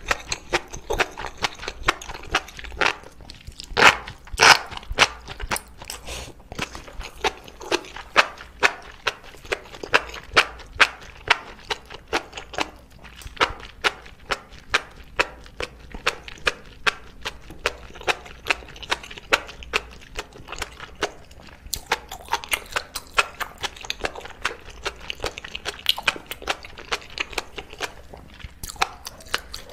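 Close-miked wet chewing and slurping of enoki mushrooms in spicy sauce: many short, sharp mouth clicks, several a second, with a denser hissy stretch near the end.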